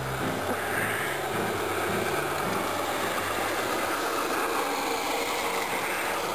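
Train running, a steady rumble with the faint tail of music in the first couple of seconds.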